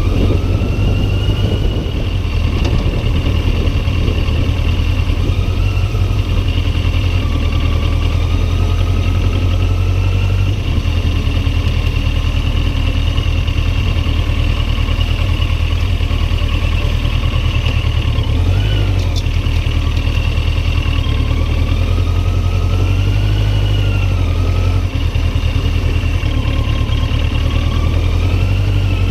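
Loud wind buffeting on a chest-mounted action camera while riding a Yamaha XJ900 motorcycle. The engine note slowly rises and falls beneath the wind.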